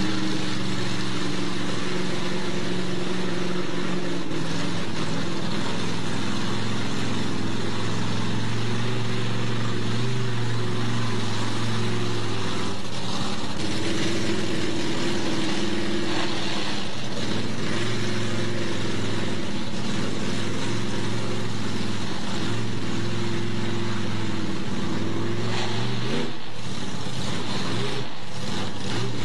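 Mud-racing Jeep's engine running, its steady note stepping up and down in pitch several times as the throttle is held and changed. A few sharp knocks sound near the end.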